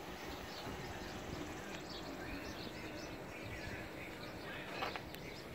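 Birds chirping now and then over steady outdoor background noise.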